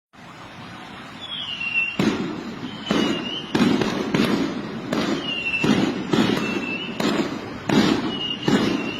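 A series of sharp bangs, roughly one or two a second, starting about two seconds in, over a rumbling background, with several short falling whistles in between.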